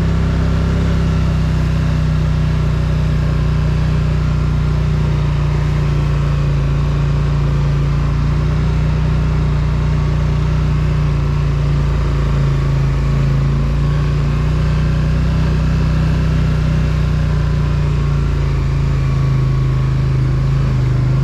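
Polaris Sportsman ATV engine running steadily at a low, even pace while riding, its pitch dipping a little twice.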